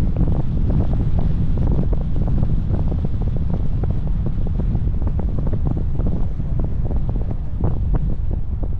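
Wind buffeting the microphone of a moving car: a loud, steady low rumble broken by rapid irregular crackling flutters.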